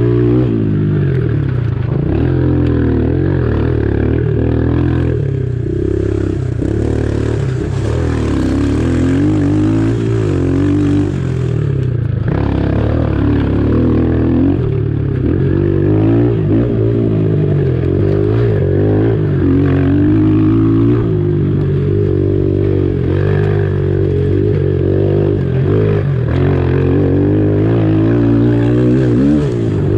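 Pitbike's small single-cylinder engine running hard on a trail, its pitch rising and falling as the throttle is worked.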